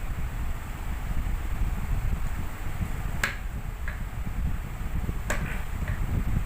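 Three sharp clicks of a screwdriver and metal parts as the screws holding a ceiling fan together are undone, over a steady low rumble.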